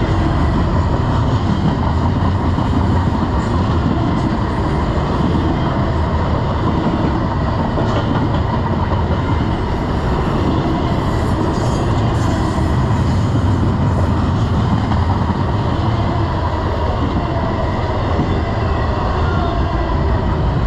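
Double-stack intermodal well cars of a freight train rolling past close by: a loud, steady rumble of steel wheels running on the rails.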